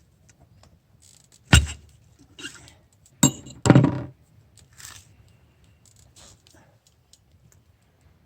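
Clinks and knocks of camp cookware being handled: a sharp knock about a second and a half in, then a louder clatter of two knocks around three and a half seconds in, with small clicks between.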